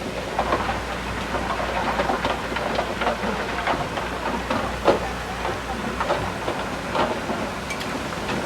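Komatsu D31P crawler bulldozer working, its diesel engine running under a busy run of irregular clanks and knocks, with one louder knock about five seconds in.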